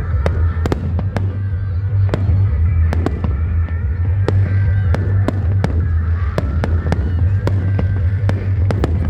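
Fireworks going off in a display: many sharp bangs and cracks in quick, irregular succession, over a loud, steady low rumble.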